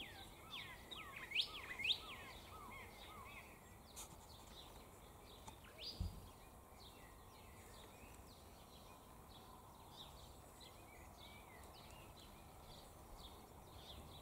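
Wild birds calling: a quick run of chirps in the first few seconds, then fainter calls repeating. There is one low thump about six seconds in.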